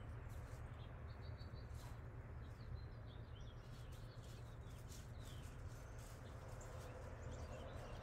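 Faint outdoor background: small birds chirping over a steady low rumble, with a quick run of short repeated notes a little over a second in and scattered chirps after.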